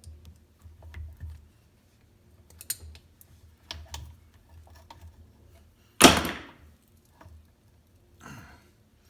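Light clicks, taps and low bumps of hands and tools working jet ski carburetors and their hoses loose, with one loud sharp clatter about six seconds in that dies away over most of a second.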